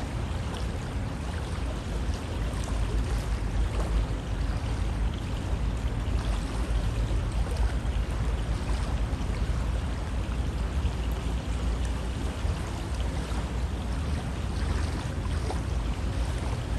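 River water flowing steadily over rocks, a continuous rushing and splashing with a deep low rumble.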